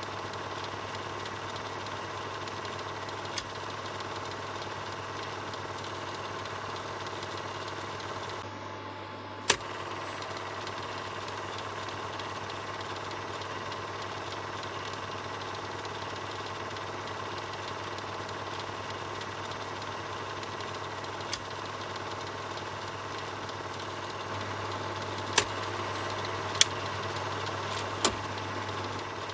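Film projector running with a steady, rapid mechanical whirr. A few sharp clicks cut through it, the loudest about ten seconds in and three close together near the end.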